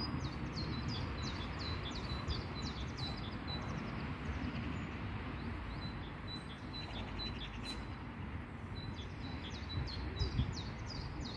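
A small songbird singing a run of short, high notes that each slide downward, about three a second. It pauses for a few seconds in the middle and starts again near the end, over steady low background noise.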